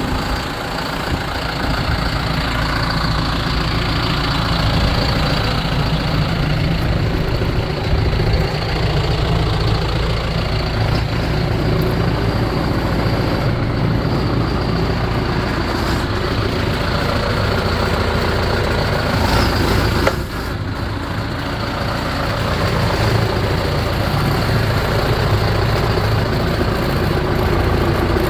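John Deere 6420 tractor's four-cylinder turbo diesel engine running steadily, with a brief sudden dip in level about twenty seconds in.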